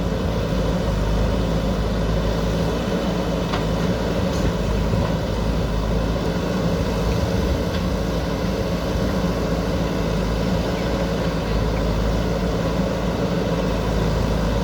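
JCB backhoe loader's diesel engine running steadily under work, with a couple of light clicks a few seconds in.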